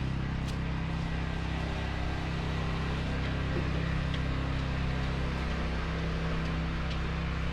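A vehicle engine running steadily with a low hum, over a steady hiss of street noise.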